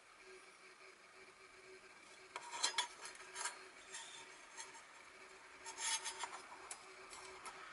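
Small stainless steel parts, likely the plates of a mini fire pit, clinking and scraping as they are handled. Bursts of light metallic clicks come about two and a half seconds in and again about six seconds in.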